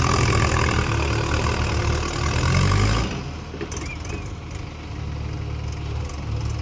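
Mahindra tractor's diesel engine running loudly, then dropping back to a lower, steady idle about three seconds in.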